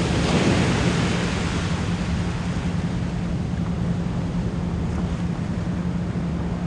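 Ocean waves washing in, one wave breaking about half a second in and slowly fading, over a steady 174 Hz pure tone.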